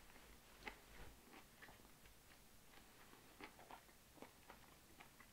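Faint, irregular wet clicks of a person chewing a hamburger in a quiet room.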